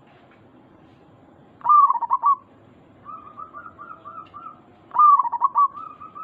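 Zebra dove (perkutut) cooing: two loud phrases of rapid notes about three seconds apart, each followed by a softer run of quick, short coos.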